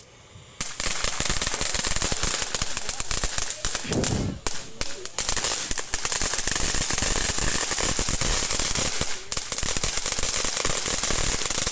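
Firecrackers going off in a long, rapid run of sharp bangs, starting about half a second in and going on with only a brief let-up midway.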